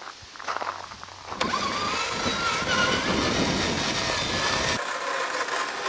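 Electric motor and geared drivetrain of a 1/8 scale RC trail truck running, a whine that wavers in pitch over a dense mechanical rattle. It starts about a second and a half in and drops off sharply near the end.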